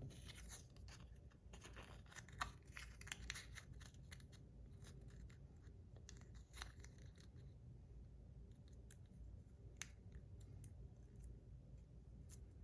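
Faint crackling and small scattered clicks of adhesive tape being handled, torn and pressed onto a small fidget toy. The sounds come more often in the first few seconds.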